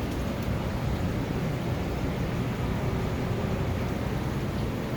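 Steady rush of air and hum from a pair of forced-air furnaces running together as one tandem system.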